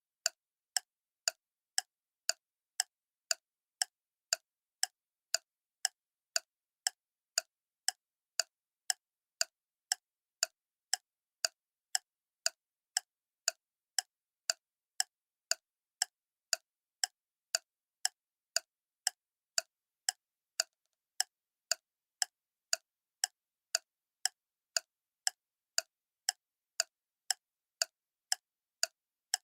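Clock ticking steadily, about two ticks a second, each tick a sharp, clean click with silence between.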